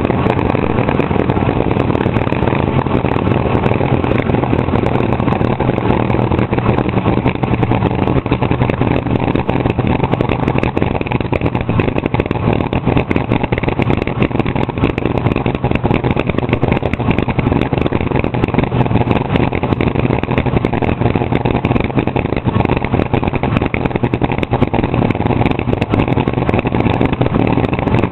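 Front-engine top fuel dragster's supercharged nitromethane engine idling, loud and steady with an irregular crackle of ticks, no revving.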